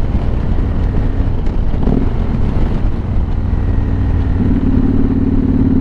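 Motorcycle engine running on the road under heavy wind buffeting on the microphone. About four seconds in, the engine note settles into a steadier, more even hum.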